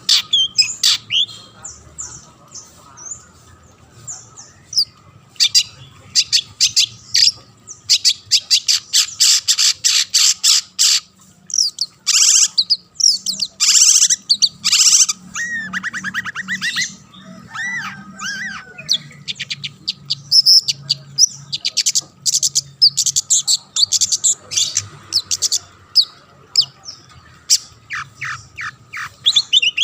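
Long-tailed shrike (cendet) singing nonstop: a varied run of rapid chattering notes, harsh rasping squawks and quick trills.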